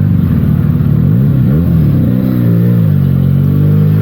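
Benelli TNT 300's parallel-twin engine running through its stock exhaust while being ridden. The engine note swings down and back up a few times in the middle, then holds steady.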